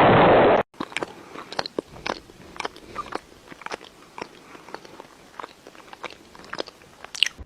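A loud hiss cuts off sharply under a second in. Then come crunchy chewing sounds, sharp crunches roughly twice a second, like a pet eating something hard.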